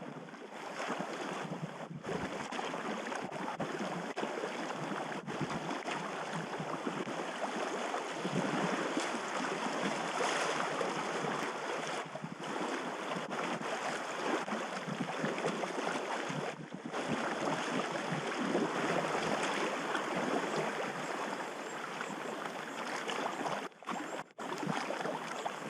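Steady rushing and splashing of river water around a packraft being paddled downstream, broken by a few very short gaps.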